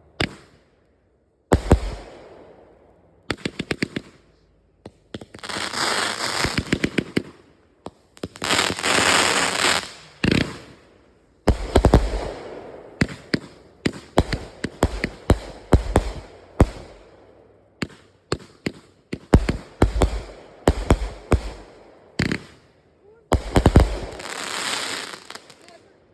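Consumer firework cake firing: a long run of sharp bangs, some in quick volleys, with several stretches of dense crackling that last a second or two each.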